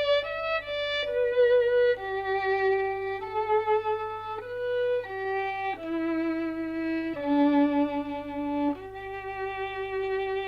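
Solo violin playing a slow melody of held, slightly wavering notes, one note at a time; the last note, starting near the end, is held longest.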